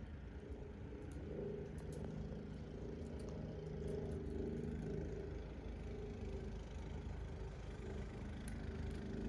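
An engine running steadily, swelling a little in the middle and easing off again, with a few faint ticks.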